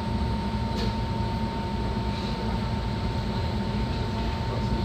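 Steady low rumble of an Enoden electric train heard from on board, with a thin steady high tone running throughout and a faint click about a second in.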